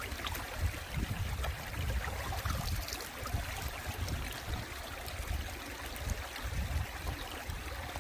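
Valley stream water running steadily, with irregular low rumbles underneath.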